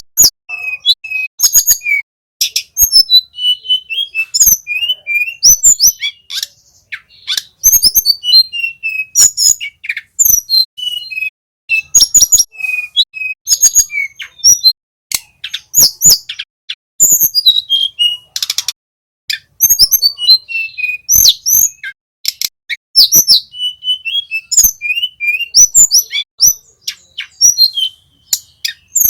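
Small flycatcher song on a bird-training recording: loud, rapid phrases of sharp high chirps and short falling whistled notes, repeated with brief pauses between them.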